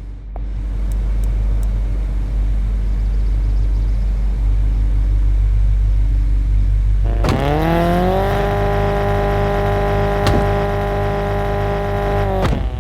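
Straight-piped Volkswagen Golf Mk7 idling, then revved about seven seconds in: the pitch climbs quickly and holds steady at higher revs for about four seconds before falling back sharply near the end.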